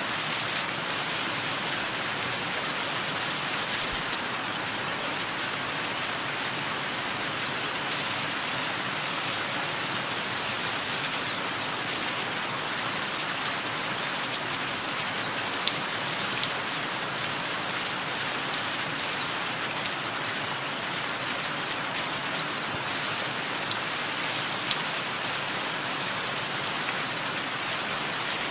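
Steady hiss of rain, with a bird repeatedly giving short, high chirps that fall in pitch, often two or three in quick succession, every second or two.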